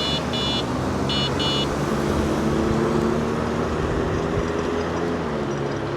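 A car's engine running as it drives through a four-way stop, over steady traffic and wind noise. Early on, a pair of short high beeps sounds twice.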